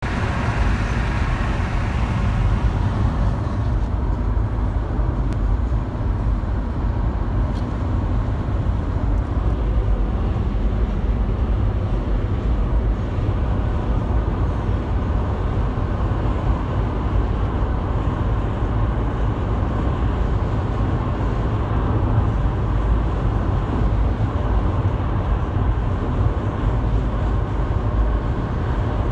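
Steady low rumble of road vehicles travelling at speed: engine drone and tyre noise with no breaks, a little brighter in the first few seconds.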